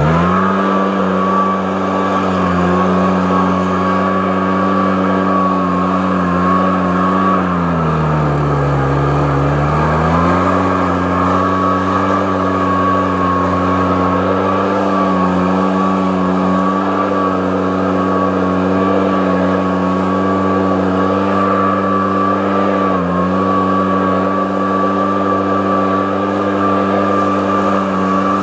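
An engine running steadily at constant speed with a high whine over it. About eight seconds in it slows for a couple of seconds, then picks back up to the same pitch.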